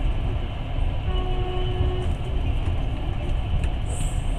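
Passenger train running on the rails, a steady low rumble, with a faint horn sounding for about a second, starting about a second in.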